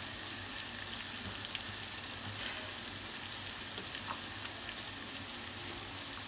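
Onion-tomato masala frying in oil in a kadhai: a steady sizzle with scattered small crackles.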